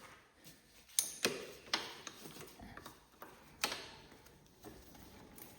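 A few sharp, irregular clicks and knocks of hand tools on metal, loudest about a second in and again near four seconds.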